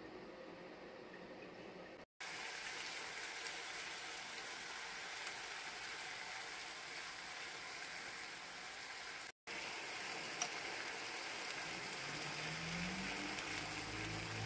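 Diced meat and chopped onion sizzling as they fry in a non-stick wok, a steady sizzle. It cuts out for a moment twice, and is a little louder after the first break. A single small click about ten seconds in.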